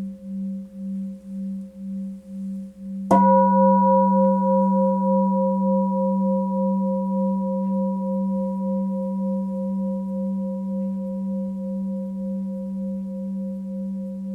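Tibetan singing bowl ringing: a pulsing hum dies away, then the bowl is struck once about three seconds in. The new tone rings on with several overtones above its low hum, wavering slowly as it fades.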